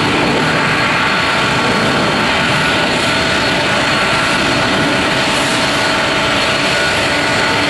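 Boeing 747-400's four jet engines running at taxi power: a steady, loud rush of jet noise with a constant whine of several held tones.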